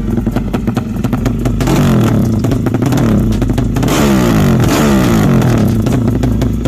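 Tuned Yamaha MX racing motorcycle engine idling roughly with a fast, uneven beat, then revved up twice, the pitch climbing and falling each time, before dropping back to idle.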